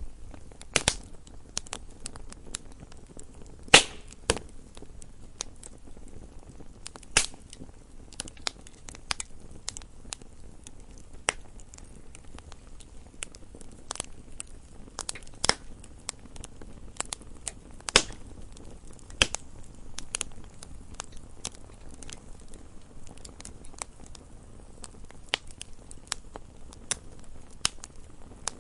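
Wood fire burning in a fireplace: a low steady rush of burning with irregular sharp crackles and pops of the logs, a few louder snaps scattered through.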